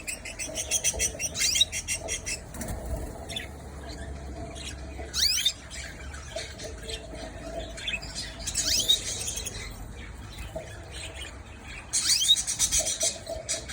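Canaries calling: bursts of rapid, high-pitched squeaky calls with short rising chirps every few seconds.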